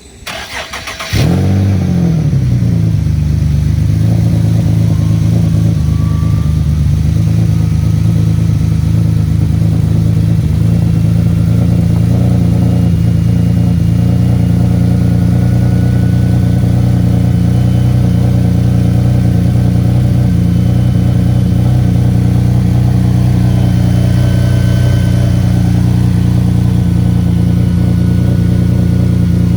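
Nissan 370Z's single-turbo VQ37VHR V6 cranking for about a second, then catching, flaring up briefly and settling into a steady idle. This is the first start-up of the newly built engine.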